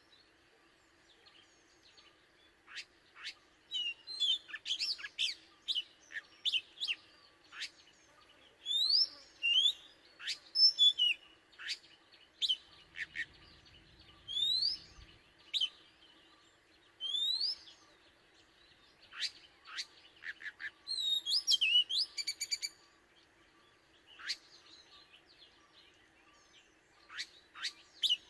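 Oriental magpie-robin singing: after about three seconds of quiet, a broken series of short whistled notes and quick rising and falling sweeps, with a fast trill of repeated notes about three-quarters of the way through.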